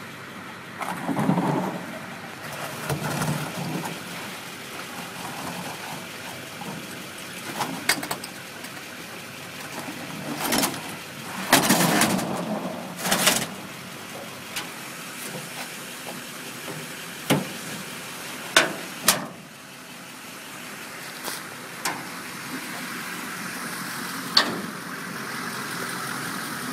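A series of knocks, thumps and clatter, the loudest and longest about eleven to thirteen seconds in, from a chest freezer being handled and loaded for scrap. A steady background noise runs underneath.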